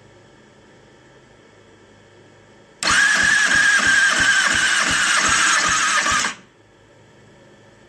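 2009 Kawasaki ZX-6R four-cylinder engine cranked on its electric starter for a compression test on cylinder 2, about three and a half seconds, starting about three seconds in. The starter whines over an even beat of roughly three to four compression strokes a second, driven by a battery weaker than expected.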